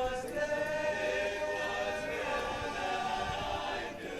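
A barbershop chorus singing a cappella, holding long close-harmony chords that change about halfway through and again near the end.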